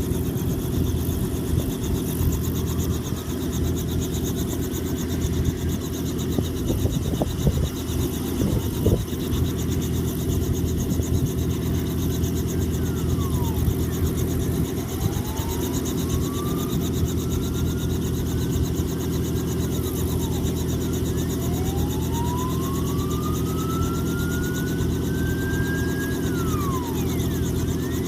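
A Robinson helicopter sitting on the ground with its engine and rotors running, a steady, even drone. In the second half, a fainter separate wail rises slowly and drops off sharply, several times over.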